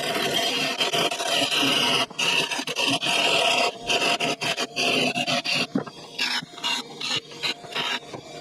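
Parting tool cutting into an ash and coconut-wood blank spinning on a wood lathe, a high scraping squeal that comes in repeated pushes with brief breaks between them.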